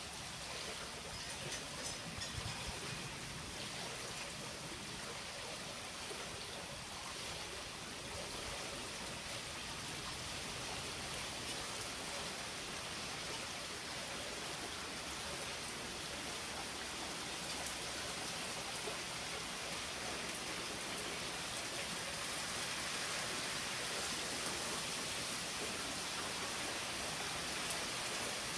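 Steady rain falling: a dense, even hiss of many drops that grows a little heavier over the second half.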